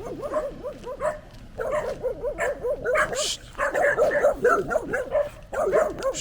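Dog barking rapidly and repeatedly, several barks a second without a break.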